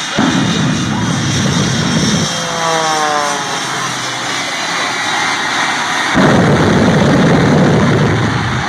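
Shockwave jet truck's jet engines firing in loud afterburner blasts: one starts suddenly at the outset, another starts suddenly about six seconds in, and a falling whine sounds in between.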